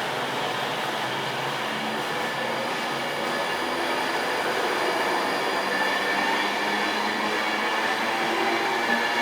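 Class 390 Pendolino electric train heard running on the rails: a steady rumble and hiss with faint high-pitched tones, getting a little louder about halfway through.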